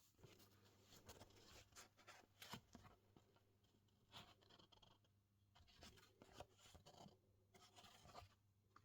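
Near silence with faint scattered light scrapes, rubs and small taps, over a low steady hum.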